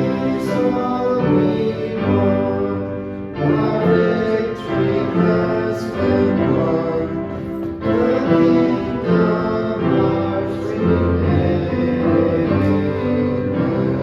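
A church hymn sung with instrumental accompaniment, in sustained chords that change about once a second and begin to die away near the end.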